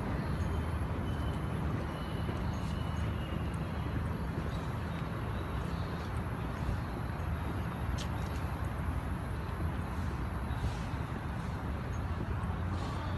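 Steady outdoor background noise, mostly a low rumble, with a faint high-pitched steady tone and a few light clicks.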